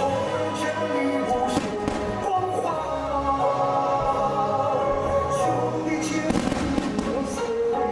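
Fireworks shells bursting over steady loud music: a few separate bangs, then a denser run of bursts near the end.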